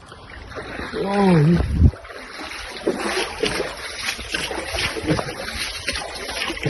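Rushing floodwater, a loud, steady roar of noise, with one short shout that rises and falls in pitch about a second in.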